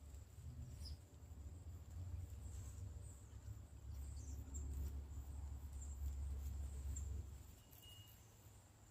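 Faint, scattered bird chirps over a steady low rumble that drops away about seven seconds in, with a thin, steady high whine underneath.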